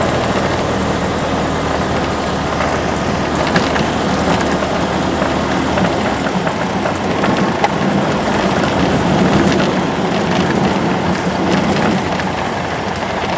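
Light aircraft's piston engine and propeller running steadily on the ground at low power, heard from inside the cabin, with small scattered rattles.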